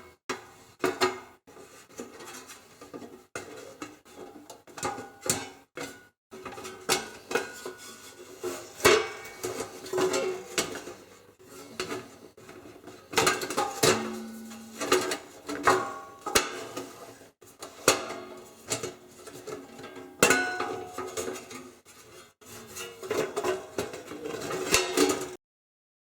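Metal toaster parts being handled: irregular clinks, clicks and knocks, some with a short metallic ring. The sound cuts off abruptly near the end.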